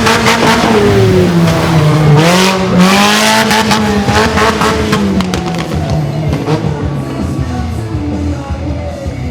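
Mini monster truck's engine revving hard, its pitch swinging up and down as the throttle is worked, with surges of tire and dirt noise. It eases to a quieter, steadier run in the second half.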